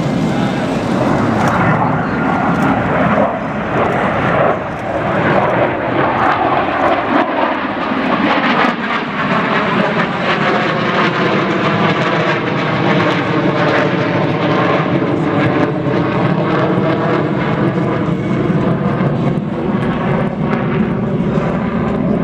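Airplane engine noise, loud and continuous, as an aircraft flies past, its pitch sliding slowly downward through the second half.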